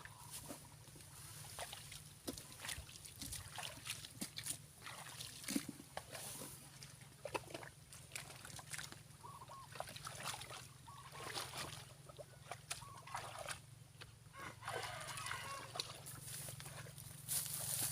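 Hands splashing and sloshing in shallow muddy water, groping for fish in a field puddle, with many short irregular splashes and knocks.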